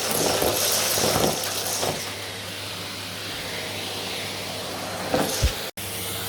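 Vacuum cleaner running with a steady hissing airflow and low motor hum, with a few short swishes as it is pushed over the floor. The sound cuts out for an instant near the end.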